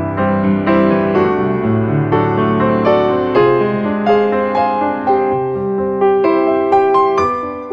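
Background piano music, slow and gentle, with notes and chords struck about once or twice a second.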